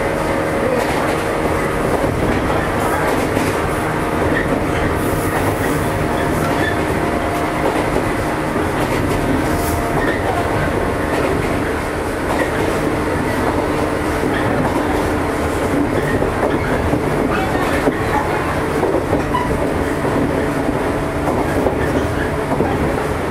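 JR East 115 series electric train running along the line: a steady rumble with the hum of its traction motors and wheels clacking over rail joints.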